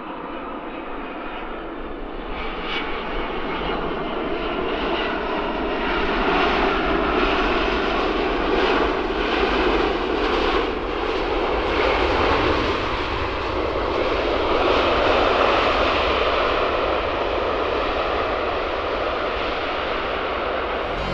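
Jet aircraft engines passing close by, a rough, dense rush that builds over the first few seconds and then stays loud.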